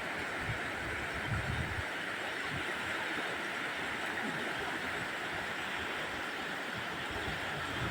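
River water rushing past with a steady hiss, with a few low rumbles in the first couple of seconds.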